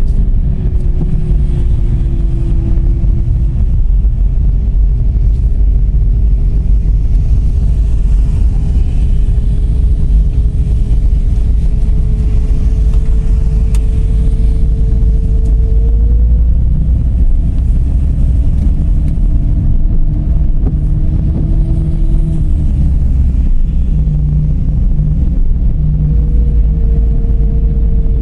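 Dodge Charger's 3.5-litre V6 and road noise while driving: a heavy low rumble with a tone that climbs slowly and drops back several times as the car speeds up and shifts.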